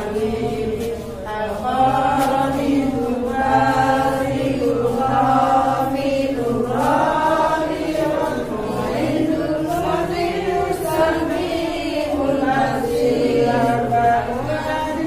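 Chanted Islamic devotional singing: a voice holding long, sliding notes over a steady low drone.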